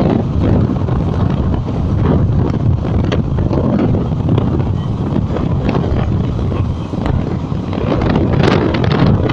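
Passenger train running along the line, heard from a coach window: a steady low rumble from the moving coaches, with wind buffeting the microphone.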